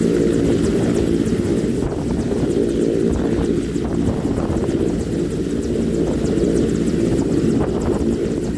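Helicopter running steadily, its engine and rotor making a continuous low, evenly pitched sound.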